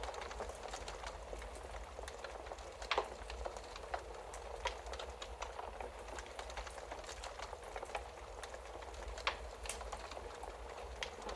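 Wood fire crackling steadily, with sharp pops scattered through it, the loudest about three seconds in, over a low steady rumble.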